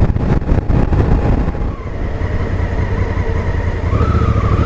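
Honda Africa Twin's parallel-twin engine running under way on the road, with wind buffeting the microphone for the first second and a half. Near the end the engine note rises briefly as it picks up revs.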